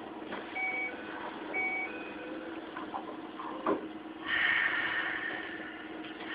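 Inside a Keikyu 600 series train: two short electronic beeps about a second apart, a sharp knock, then a loud burst of air hiss about four seconds in, over a steady hum.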